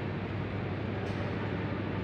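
Steady airport background noise: an even rumble with a low hum, from engines or ventilation, with no distinct events.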